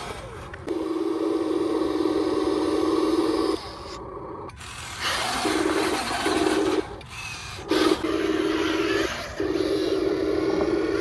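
A small electric motor whirring steadily in several runs of about one to three seconds each, with short pauses and some rustling between them.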